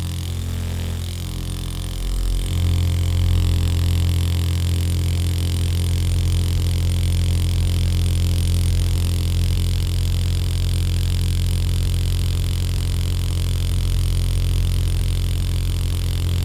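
A machine or motor running with a steady low hum, stepping up in level about two and a half seconds in and then holding even.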